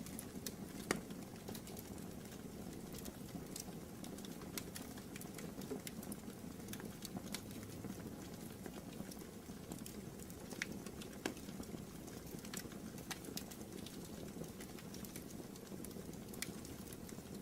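Wood fire burning in a fireplace: a steady low rush with scattered crackles and pops, the sharpest about a second in.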